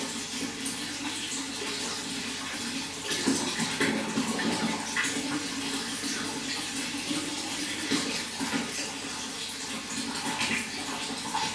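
Running water flowing steadily, with irregular small splashes and gurgles.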